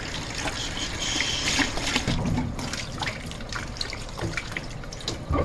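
Water running or being poured, with scattered small clicks and knocks.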